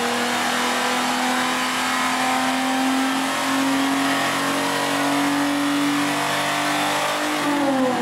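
Exhaust note of a 120-series Toyota Mark X V6 through an aftermarket bullet-type rear silencer (stock front and center pipes), tuned for deep bass. The engine holds raised revs with the pitch climbing slowly, then the revs start to drop near the end.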